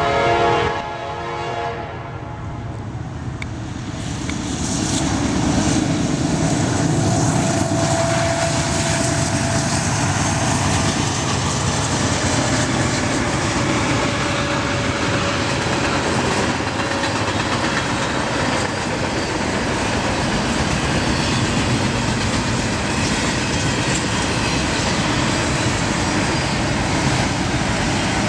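A diesel train's horn sounding a chord that cuts off about a second in, then the train running with a steady loud rumble and rattle of wheels on rail, building a few seconds in.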